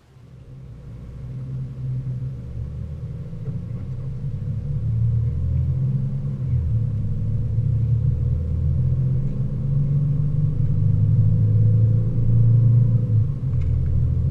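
Mercedes ML350 4matic's V6 engine and road rumble heard from inside the cabin while climbing a mountain road. The sound grows louder over the first few seconds, then holds steady, with the engine note rising and falling as the throttle changes.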